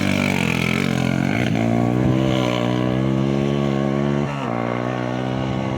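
Off-road rally vehicle's engine accelerating, its pitch climbing steadily, then dropping sharply about four seconds in and running on at a lower pitch.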